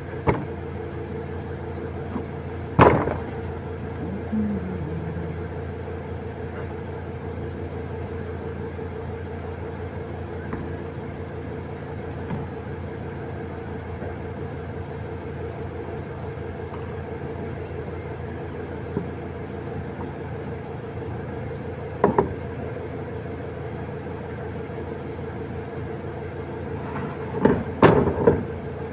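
Electric fan motor running with a steady hum and a fixed tone. A few sharp knocks cut in: one about three seconds in, one about two-thirds through, and a short cluster near the end.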